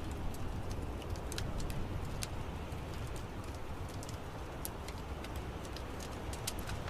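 Wood fire crackling, with irregular sharp pops and snaps, several a second, over a steady low rumble.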